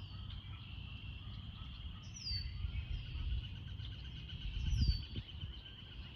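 Wild birds singing, one repeating a short high whistle that falls in pitch about once a second, over a steady high trill. Wind rumbles on the microphone, with a gust about five seconds in.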